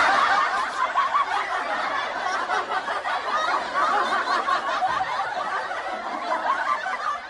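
A crowd of people laughing together, many voices overlapping in one continuous wave of laughter that tapers off near the end.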